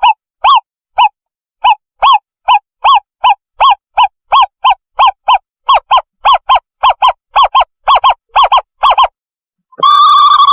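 Owl call played as a bird-luring call: clear, loud hooting notes that repeat and speed up from about two to about four a second, then break into a continuous warbling trill near the end.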